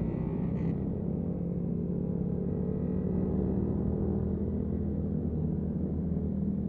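Yamaha MT-125's single-cylinder four-stroke engine running steadily while riding at a constant pace, with a slight rise and fall in pitch about three seconds in.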